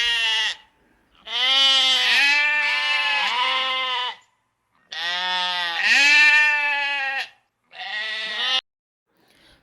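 Sheep bleating: a run of long, wavering bleats with short pauses between them, about four calls.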